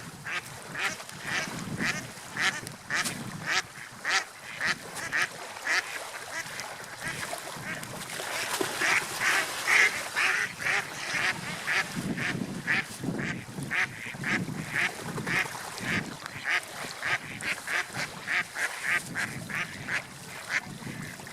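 Gulls calling over and over in a fast series of short, harsh calls, about two to three a second, loudest about ten seconds in.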